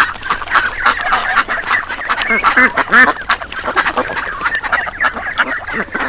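A flock of birds calling, many short calls overlapping in a busy, unbroken chatter.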